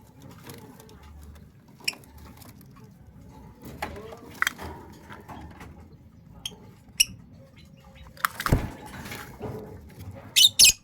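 A pet puter pelung dove moving about in its cage: scattered small taps, scratches and rustles, a heavier thump a little past the middle, and a quick pair of sharp clicks near the end.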